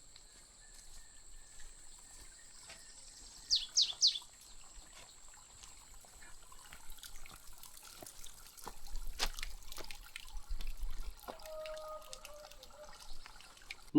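Quiet outdoor ambience: a thin, steady high tone throughout, with scattered light clicks and a quick run of three short, high falling chirps about three and a half seconds in.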